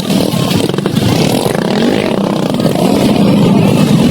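Dirt bike engine running loud, getting somewhat louder from about three seconds in.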